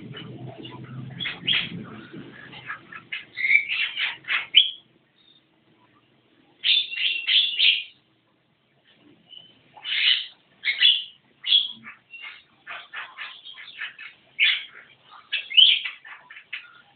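Javan myna (jalak kebo) chattering in rapid strings of short, harsh, high calls, in clusters broken by pauses of a second or two. A low rumble sits under the calls for the first four seconds or so.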